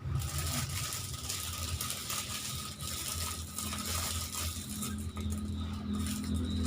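Plastic snack packets and wrapping crinkling and clicking as they are handled and packed, with a steady low rumble underneath.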